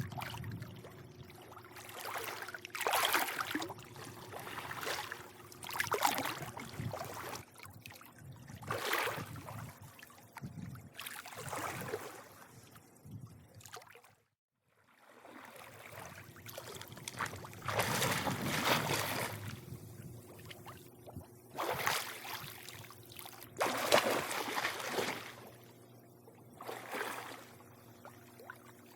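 Swimming-pool water lapping and sloshing in irregular surges, over a faint steady low hum. The sound drops out to silence for a moment about halfway through.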